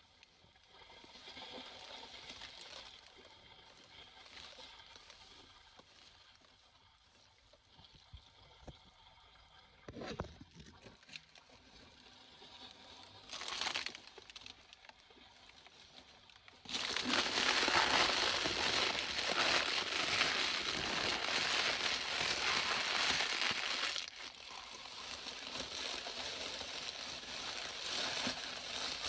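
Crinkling and rustling of beach litter being handled, with a few louder crackles. About two-thirds of the way in, a loud, steady rushing noise starts suddenly and runs on, easing a little later.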